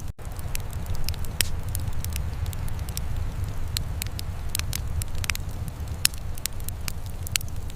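Wood fire crackling in a fireplace: irregular sharp pops and snaps, several a second, over a steady low rumble. The sound drops out for a split second just after the start.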